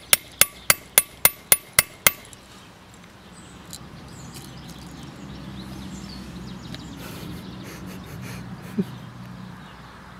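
About eight quick, evenly spaced hammer taps, around four a second, ringing metallically on the soldered metal lid of an AMD Athlon 64 CPU stood on edge to split it open. The taps stop about two seconds in, leaving only a faint low background hum.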